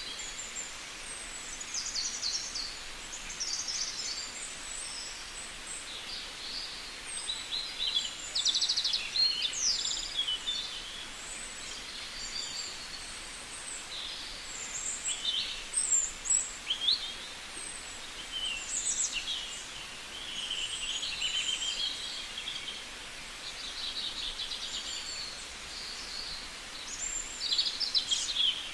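Parrots calling, a stream of short, shrill chirps and squawks, some in quick clusters, over a steady outdoor hiss.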